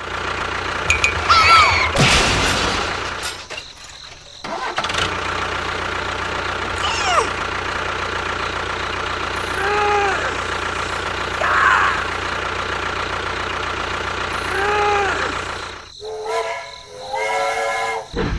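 A small engine running steadily with a low hum, dropping out briefly about four seconds in and then carrying on. Short pitched calls that rise and fall sound over it twice, and a brief voice-like cry comes near the end.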